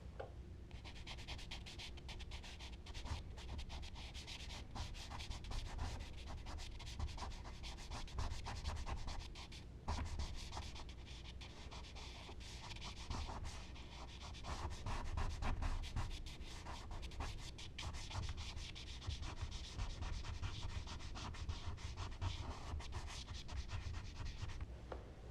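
Charcoal scratching and rubbing across smooth Bristol paper in quick, continuous strokes.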